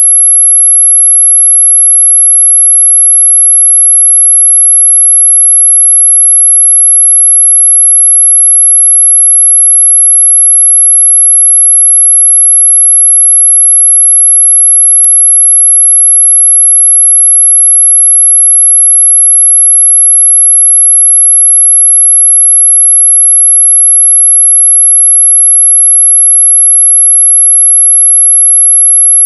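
A continuous, steady, high-pitched electronic sine tone at one unchanging pitch, sold as an 'ultrasonic' mosquito-repellent sound, though the pitch is high but audible.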